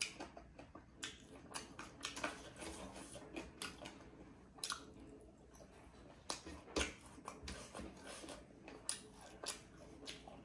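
Close-up chewing and wet mouth sounds of a person eating buffalo meat and rice, with irregular sticky clicks and smacks; fingers squish and mix rice on a steel plate.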